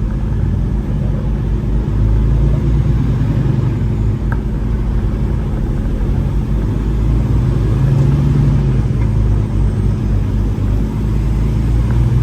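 Semi truck's diesel engine running under way, a steady low drone whose note rises and falls a little a few times.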